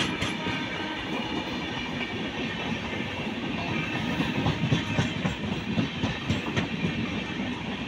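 Passenger train coaches passing close by, a steady rumble of steel wheels on the rails with a continual clatter over the rail joints.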